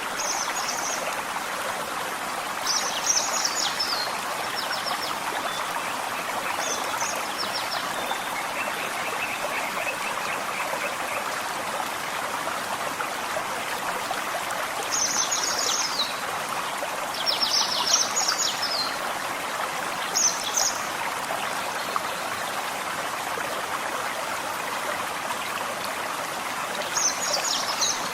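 Gentle forest stream running steadily, with short bursts of high bird song now and then: clusters of quick notes a few seconds in, several more between about 15 and 21 seconds, and again near the end.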